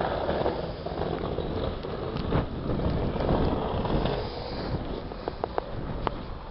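Gusty wind buffeting the microphone, a rumbling noise that swells and eases, with a few light clicks near the end.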